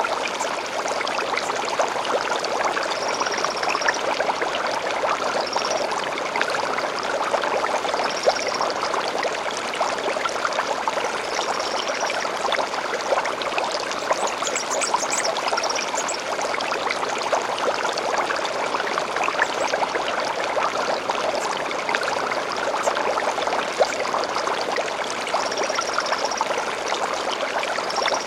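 Shallow stream flowing steadily. Short high bird calls come through it every few seconds, with a brief burst of higher notes about halfway through.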